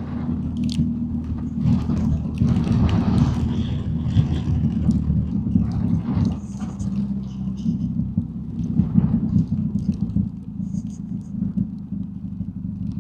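BMW R1250GSA motorcycle's boxer-twin engine running steadily while riding, under rushing wind noise.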